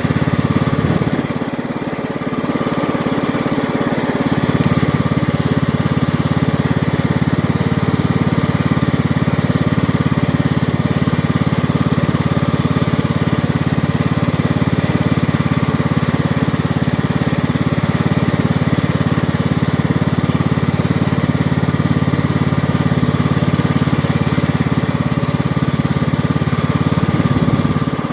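John Deere lawn tractor's 540cc, 18 hp engine running steadily while the tractor is driven. The engine note drops briefly about a second in, then picks back up a few seconds later.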